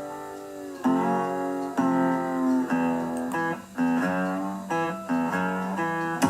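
Background music: a guitar playing held chords, a new chord struck about once a second.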